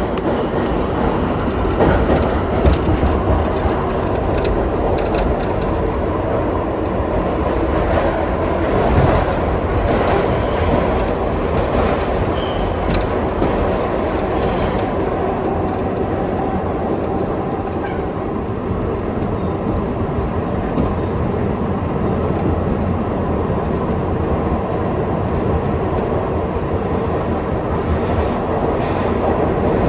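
Kawasaki R62 subway train running along the track with a steady rumble of wheels on rail, clacking over rail joints, most often in the first half.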